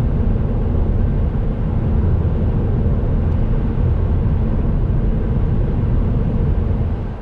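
Kia Ceed 1.5 T-GDi four-cylinder turbo petrol car cruising at a steady speed: even engine drone mixed with tyre and road noise, with no rise or fall in pitch.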